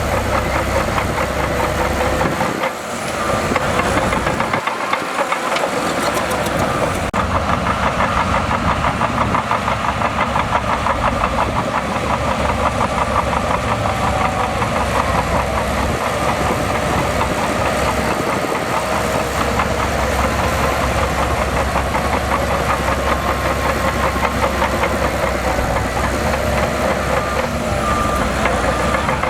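Heavy diesel engine of earthmoving machinery running steadily, with a pulsing low rumble that drops away briefly a few seconds in.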